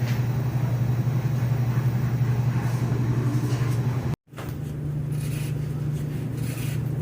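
Steady low drone of a vehicle's engine and road noise, heard from inside the vehicle while driving. It drops out for an instant about four seconds in and comes back slightly higher in pitch.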